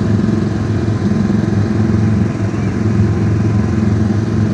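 Car engine running steadily at a constant low hum, heard from inside the car.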